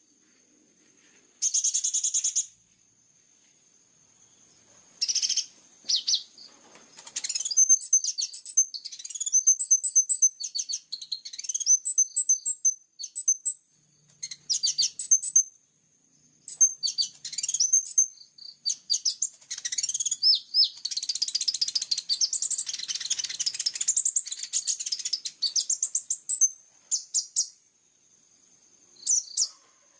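Kolibri ninja sunbird singing: bursts of very high, sharp chirps and fast trills with short pauses between, becoming a dense unbroken run of song about two-thirds of the way through. A faint steady high tone sits underneath.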